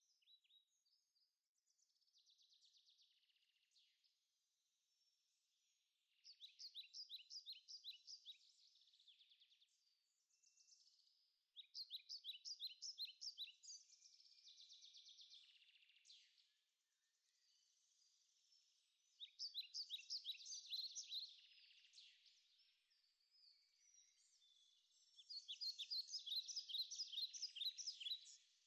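Faint birdsong: a bird repeating phrases of rapid, high trilled notes, four phrases each two to three seconds long, spaced several seconds apart.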